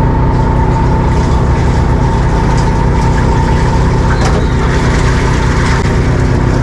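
A motor aboard a small fishing boat running steadily, a constant low hum with a thin steady whine above it.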